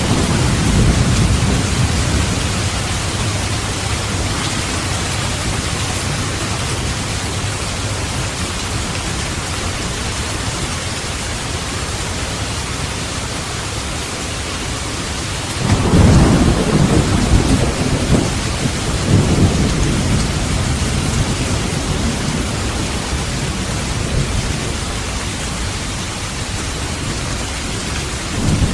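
Steady heavy rain with rolling thunder: a low rumble in the opening seconds, then a louder roll of thunder a little past the halfway point that rumbles on for several seconds.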